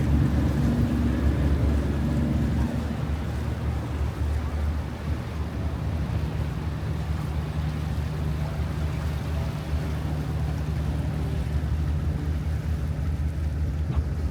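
River cruise boat's engine running with a steady low drone as the boat manoeuvres in to dock. A pulsing upper note fades out after about three seconds, and a different steady low note sets in about six seconds in.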